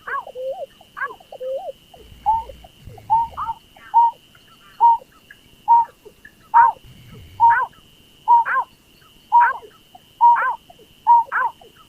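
Berkik (pekung) paddy-field bird calling over and over, a short call about once a second, most sweeping down in pitch into a brief hoot, with lower wavering notes in the first couple of seconds. A steady faint high tone runs behind the calls.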